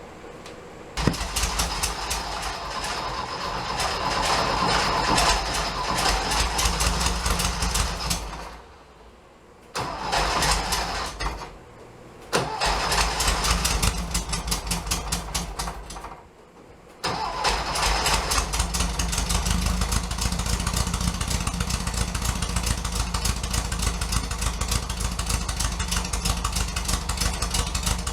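An engine started with a lever. It runs, cuts out abruptly and restarts three times in the first sixteen seconds, then catches and keeps running steadily with an even rapid pulse.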